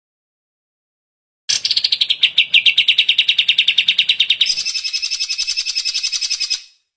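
Greater green leafbird (cucak ijo) singing a fast, rapid trill of about a dozen notes a second. It starts about a second and a half in and switches to a higher, thinner trill about three seconds later.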